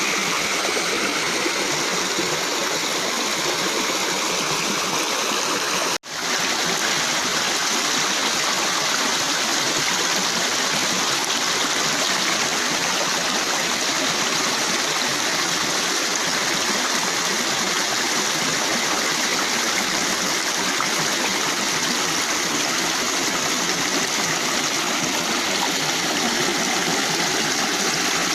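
Rain-fed stream water flowing steadily, with a brief cut in the sound about six seconds in.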